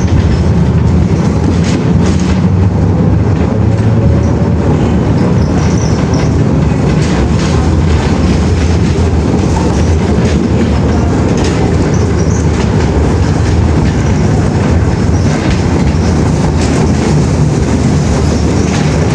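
Steady, loud low rumble with irregular sharp clicks and knocks through it.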